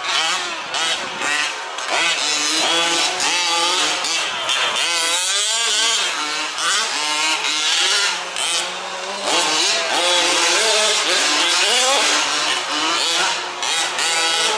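Several 1/5th-scale RC off-road trucks' small two-stroke petrol engines racing together, their overlapping notes constantly rising and falling as the throttles open and close.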